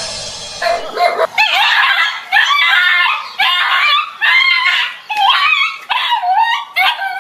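A dog yelping and whining in a run of short, high calls that bend in pitch, with a brief noisy burst at the start.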